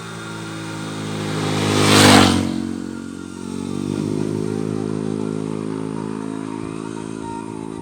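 A motor vehicle passing close by: its noise rises to a peak about two seconds in, then falls away as its pitch drops, over a steady pitched running hum.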